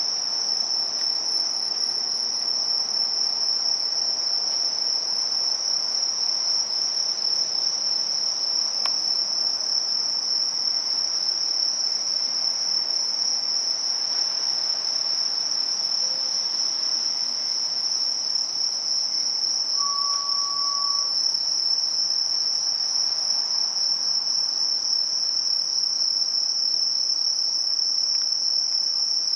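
Crickets calling in an unbroken, even, high-pitched chorus. A short faint lower tone sounds once, about twenty seconds in.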